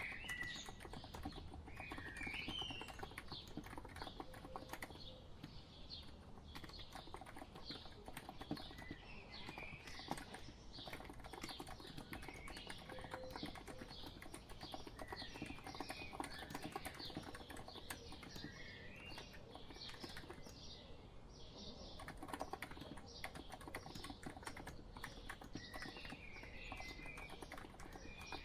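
Continuous, quiet typing on a COX Empress electro-capacitive (non-contact) keyboard: a steady stream of soft key clicks. Birds chirp in the background every few seconds.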